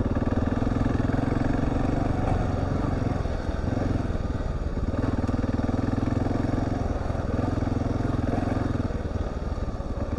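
Husqvarna TR650's single-cylinder engine running steadily while riding, dipping briefly about three times as the throttle is eased off.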